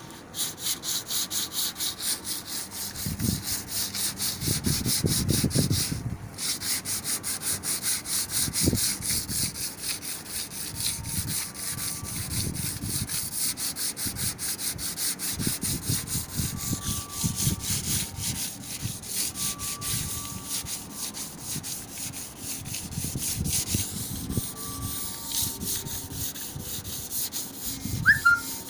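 Hand sanding of a car body panel, likely over body filler: sandpaper scraped back and forth in steady strokes at about three a second, with a short break about six seconds in.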